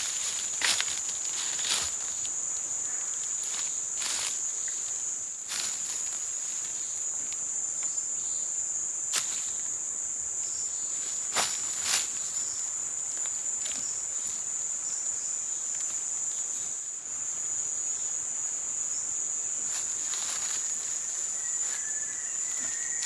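A steady, high-pitched drone of insects, crickets or cicadas, with scattered sharp clicks and snaps over it.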